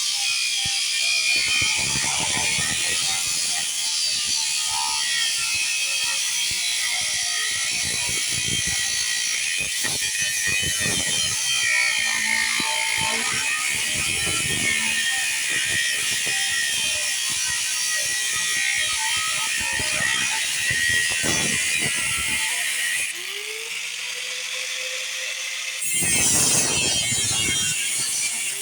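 Angle grinder with a cut-off wheel cutting metal, a steady high grinding with knocks. About three quarters of the way through it eases off to a quieter motor tone, then bites in loudly again near the end.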